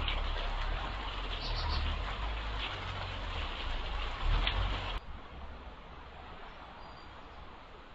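Steady outdoor noise picked up by a garden security camera's microphone, with a low rumble that stops abruptly about five seconds in, leaving a quieter hiss.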